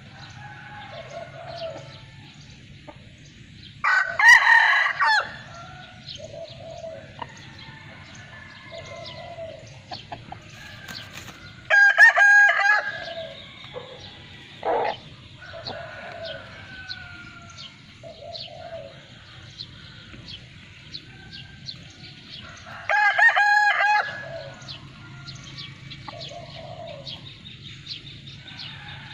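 Roosters crowing three times, each crow loud and about a second long, with softer clucking and short calls in between.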